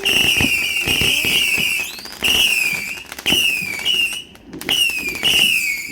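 Whistling fireworks going off one after another: a run of shrill whistles, each dropping slightly in pitch, over sharp crackles and pops.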